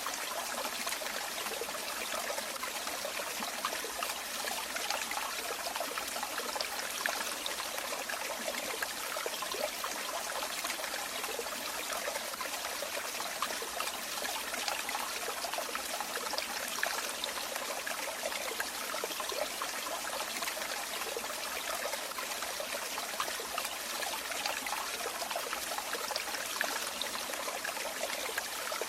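Running water trickling and splashing steadily, a small stream or falling water with no change in flow.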